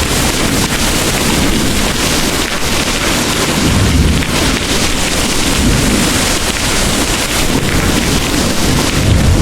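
Heavy rain pouring steadily with the low rumble of distant thunder underneath, the rumble swelling about four seconds in and again near the end.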